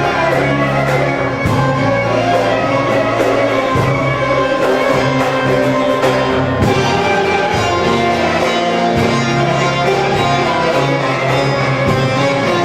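Live Turkish folk music from a folk ensemble, with string instruments playing the melody over a steady rhythm.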